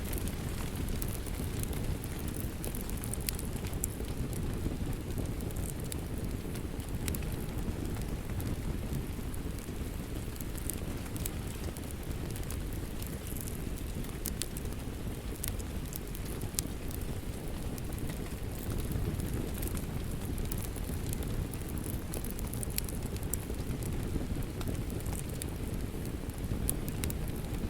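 Steady rain with a wood fire crackling over it: a constant low rush and many small sharp pops and snaps at uneven intervals.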